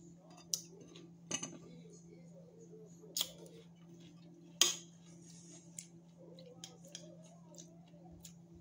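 Mouth-close chewing of raw green tomato: a handful of sharp, crisp crunches, the loudest about four and a half seconds in.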